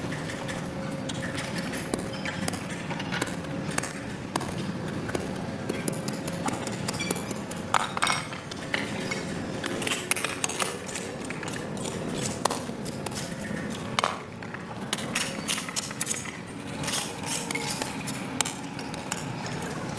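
Hand tools scraping and knocking on a wet, muddy sidewalk: irregular clicks, knocks and scrapes over a steady wash of noise, with the sharpest knocks about 8 and 14 seconds in.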